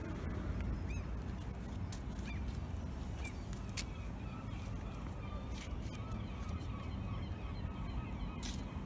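Distant bird calls over a steady low rumble, with scattered faint clicks.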